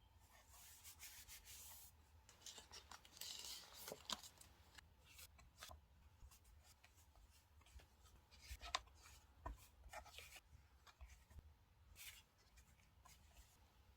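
Faint rubbing and rustling of paper and stickers being handled and pressed onto a diary page, with scattered light taps and clicks.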